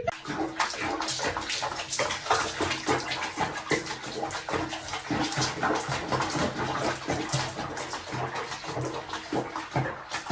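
Water splashing and running in a continuous, irregular patter, as in a bath being filled or used.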